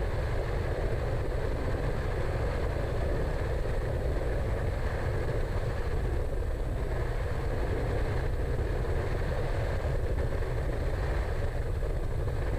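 Cessna 208 Caravan amphibian's turboprop engine running steadily at low power while taxiing, heard from inside the cockpit as a constant low rumble and hum.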